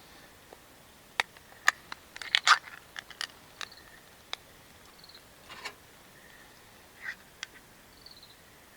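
A series of sharp clicks and light knocks of small objects being handled, the busiest cluster about two and a half seconds in, with a few faint high chirps in between.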